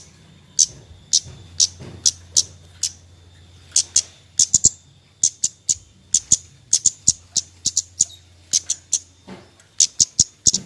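Kemade bird giving sharp, high 'cret' chip calls over and over, a few per second at irregular spacing, some in quick doubles and clusters.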